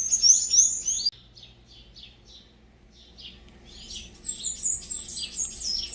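Small songbirds chirping in quick, high notes: a loud flurry in the first second, fainter scattered chirps, then a busy run of chirps again from about four seconds in.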